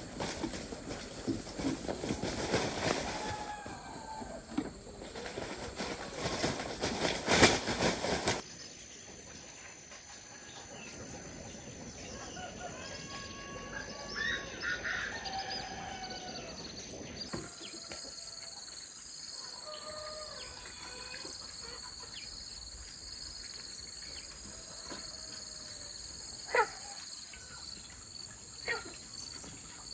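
Loud clattering, rustling noise with sharp knocks, which cuts off suddenly about eight seconds in. After it come quieter outdoor sounds: birds chirping over a steady high insect drone, with two sharp knocks near the end.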